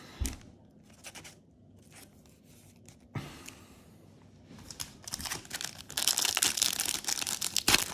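Foil booster pack wrapper crinkling and tearing as it is ripped open. The first few seconds hold only light handling noise, and the crinkling starts about five seconds in and gets louder.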